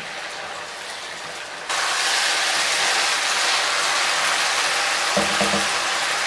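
Pumpkin cubes sizzling in soy and oyster sauce in a hot frying pan while a spatula stirs them. The sizzle gets louder about two seconds in.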